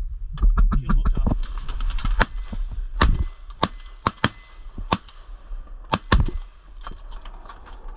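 Duck quacking: a string of short, sharp quacks, some in quick runs of three or four, spread unevenly throughout.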